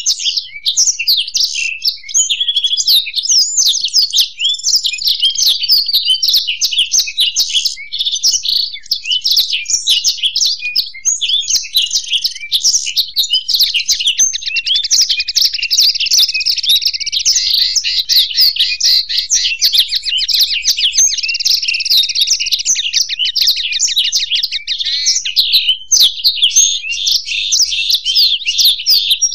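Black-throated canary and European goldfinch singing together: an unbroken, fast, high twittering song, with a long run of rapid repeated trill notes in the middle.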